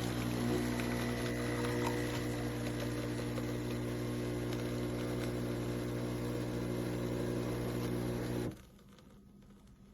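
Espresso machine's pump buzzing steadily while pulling a single shot, then cutting off abruptly near the end as the shot finishes.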